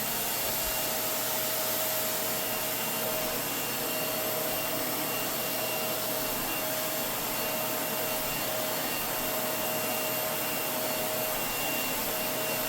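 Vacuum cleaner running steadily: a motor whine over an even rush of air.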